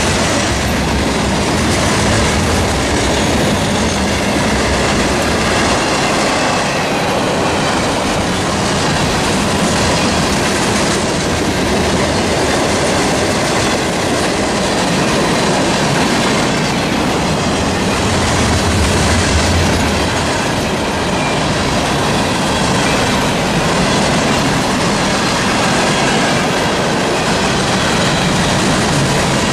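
Freight cars of a passing train rolling by on the rails: a loud, steady rumble and rattle of wheels on track, with clickety-clack over the rail joints.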